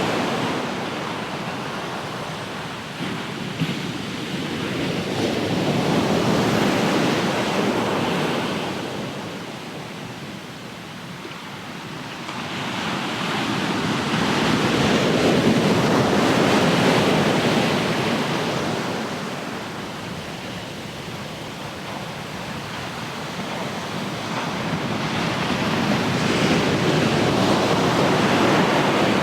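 Ocean surf: waves breaking and washing in, the rush swelling and fading in slow surges roughly every ten seconds.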